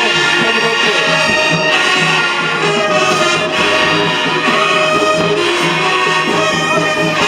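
High school marching band playing a brass-heavy tune, with trumpets and trombones holding loud sustained notes over a steady low beat.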